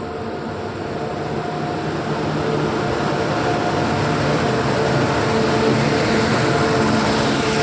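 Train running, its rumble growing steadily louder, with a faint steady hum under the noise.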